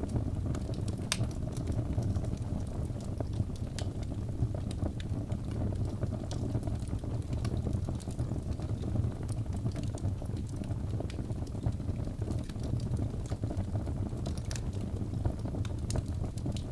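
Fire crackling: a steady low rumble with scattered sharp pops and snaps.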